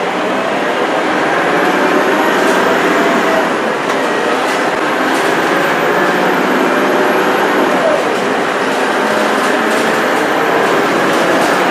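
Scania K230UB bus's diesel engine and turbo running under steady load on the move: a loud, even drone with a faint high whistle, rising a little in level over the first couple of seconds.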